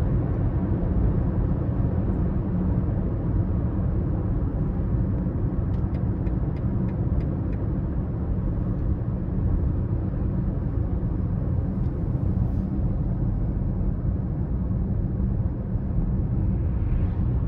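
BMW X5 30d's straight-six turbodiesel and tyre noise while cruising, a steady low rumble. A row of faint ticks comes about six seconds in.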